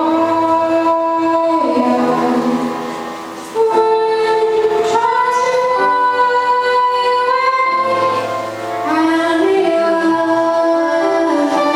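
Female vocalist singing with musical accompaniment, holding long notes and stepping between pitches, with brief breaks for breath.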